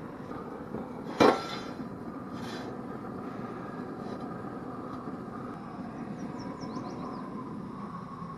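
A single sharp metallic clank with a short ring about a second in, followed by softer knocks, as of metal gear being handled at the grill. Near the end a small bird gives a quick run of high, falling chirps over a steady outdoor background.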